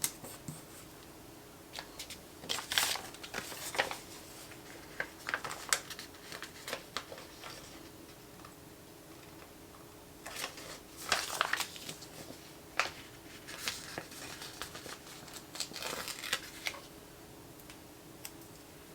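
Sticker sheets and paper being handled: crinkling and peeling sounds in irregular bursts, with a faint steady room hum underneath.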